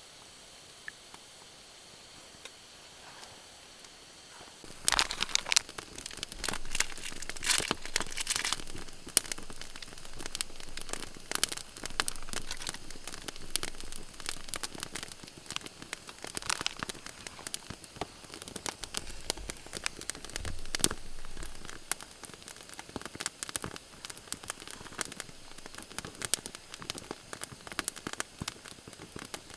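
Wood campfire crackling and popping in quick irregular snaps, starting suddenly about five seconds in after a faint hiss.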